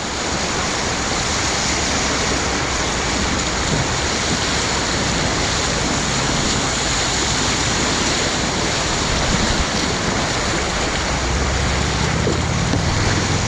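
Steady rushing of whitewater at a river wave, an even roar of churning water.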